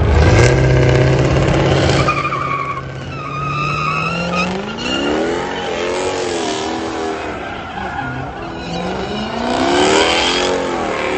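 A vehicle doing a burnout: the engine held at high revs with the tyres squealing, then revved up and down several times, with another loud squeal near the end.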